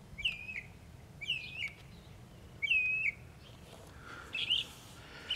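A bird calling: a short chirped note repeated three times about a second apart, the third the loudest, then a few softer chirps near the end.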